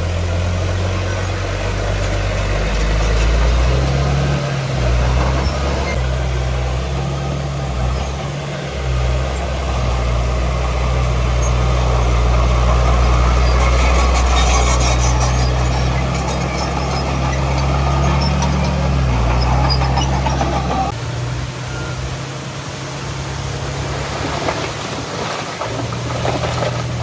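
Diesel engine of heavy earthmoving machinery running under varying load, its pitch stepping up and down, then easing off about two-thirds of the way through, with a few sharp knocks near the end.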